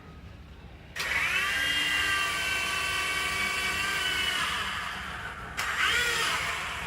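Mini remote-control helicopter's small electric rotor motor whining: it spins up about a second in, runs steadily for a few seconds and fades, then spins up again briefly near the end.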